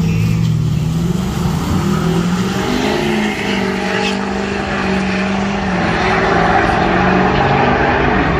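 Vehicle engine running loudly at a steady, low pitch that shifts a little, with a rushing noise building up in the second half.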